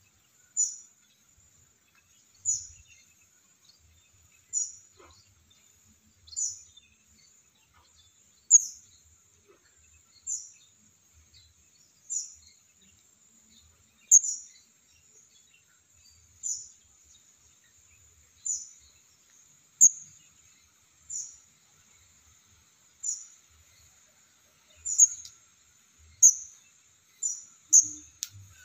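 Baby bird giving short, very high-pitched chirps about every two seconds, calling for its parent; the calls come faster near the end.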